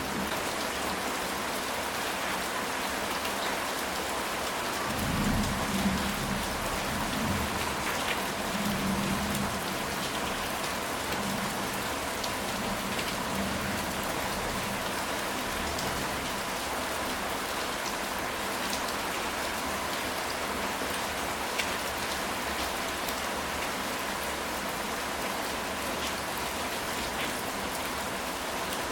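Steady rain falling on a ceramic tile roof, with a scattered patter of individual drops. A low thunder rumble comes in about five seconds in and fades over the next few seconds.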